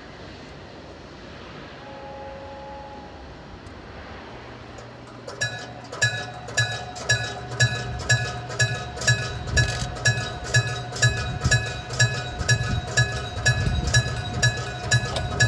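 Electric-bell railway level crossing warning bell starting up about five seconds in, then striking steadily about twice a second over a low hum.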